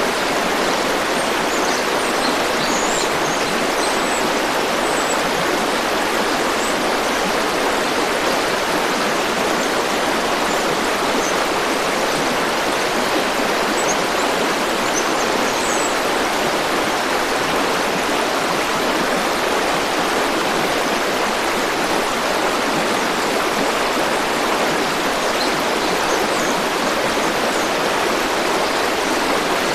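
A river or stream flowing steadily, a constant rush of water. A few faint, high bird chirps come and go over it.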